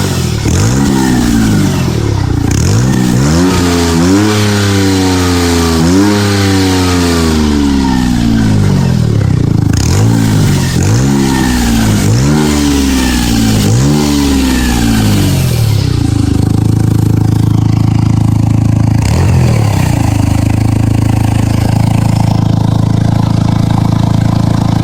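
Smart Roadster Brabus three-cylinder turbo engine through a newly fitted RS-parts aftermarket exhaust, revved in repeated quick throttle blips about every two seconds, then settling to a steady idle about 16 seconds in.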